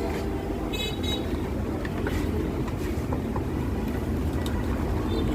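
Steady rumble of street traffic, with a brief vehicle horn about a second in. A few light clicks come from the plastic fan housing being fitted back together.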